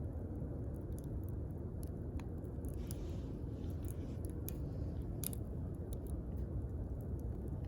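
Wood fire crackling: scattered sharp pops and snaps over a steady low rush of burning, with a faint hiss about three seconds in.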